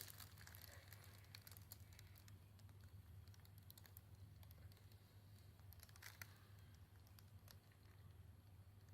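Near silence: room tone with a steady low hum and a few faint scattered ticks and rustles, a little stronger about six seconds in.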